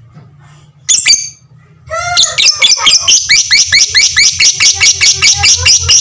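Lovebird giving one sharp squawk about a second in. About two seconds in it breaks into its long ngekek chatter, a fast, unbroken run of short sharp notes at roughly seven or eight a second.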